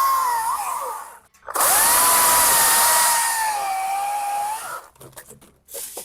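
Stihl MSA 220 TC battery-powered top-handle chainsaw running in two bursts, an electric motor whine with a fairly steady pitch, the second burst winding down about three-quarters of the way through; a few short knocks follow near the end.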